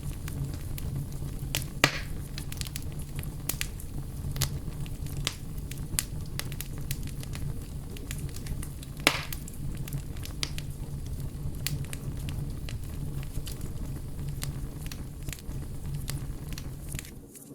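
Wood bonfire burning: a steady low rumble of flames with scattered crackles and sharp pops, two of them louder, about two seconds in and about nine seconds in. The sound dips briefly near the end.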